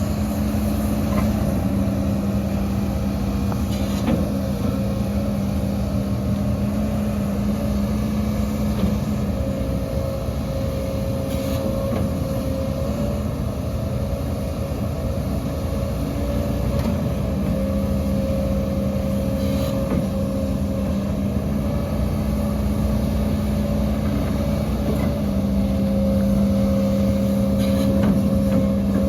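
Heavy diesel engine of earth-moving machinery running steadily, its note shifting for several seconds near the middle, with a few faint knocks.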